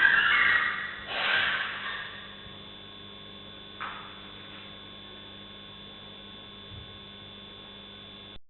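Steady electrical hum on a low-quality recording, with loud, harsh cries in the first two seconds and a short one about four seconds in. The audio cuts off near the end.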